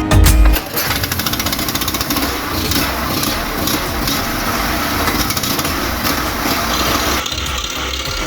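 A 2.5 kVA petrol generator's small engine running steadily at speed, with a rapid even pulse; the sound changes slightly about seven seconds in. Music ends just under a second in.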